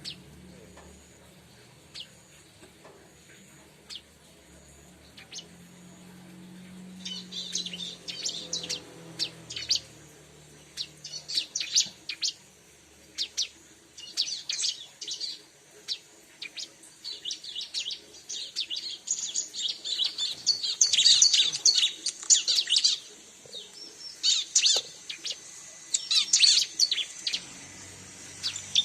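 Ciblek (bar-winged prinia) calling: sparse single high chirps at first, then from about seven seconds in, rapid high twittering song in repeated bursts, loudest a little past the middle. A low engine rumble fades out early on.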